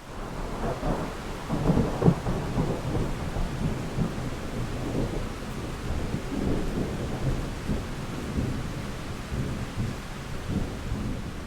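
Rolling thunder over steady rain. The rumble builds over the first couple of seconds, is loudest about two seconds in, and keeps rolling on.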